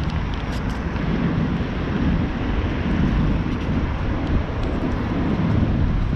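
Wind buffeting the microphone of a camera on a moving bicycle: a steady, loud low rumble, with a few faint ticks in the first second.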